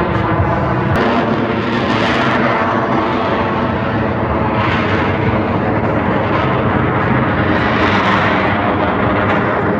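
Airplane engine running as an aircraft flies past in a display, a steady loud drone that swells and eases a few times.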